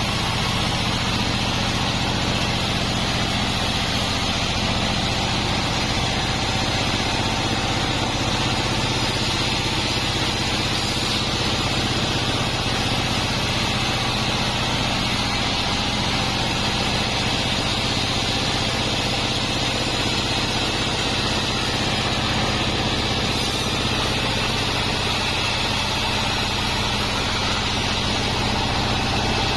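Large 36-inch sawmill band saw running steadily: a constant motor hum with a continuous high hiss from the blade, with no breaks or changes in speed.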